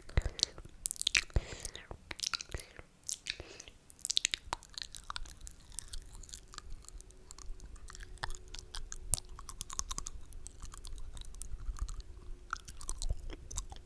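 Close-miked ASMR mouth sounds: wet smacking, clicking and slurping noises, irregular and rapid, busiest in the first few seconds.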